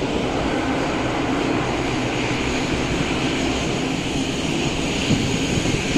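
Jet aircraft engines at takeoff power: a steady, loud rushing noise with no rise or fall.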